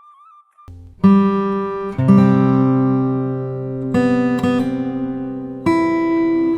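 Background music: acoustic guitar chords strummed about every one to two seconds, each ringing out, after a faint thin melody in the first moment.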